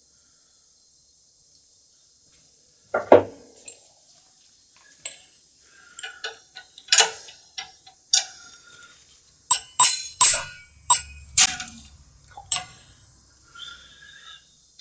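Steel tools and iron parts clinking and knocking as screws are taken out of an antique iron. After a few seconds of quiet comes one duller knock, then scattered sharp, ringing clinks, which bunch into a quick flurry in the second half.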